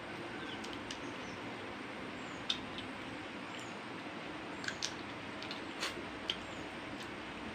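Quiet eating: a few small mouth clicks and smacks from chewing slices of sour elephant apple, over a steady low hiss.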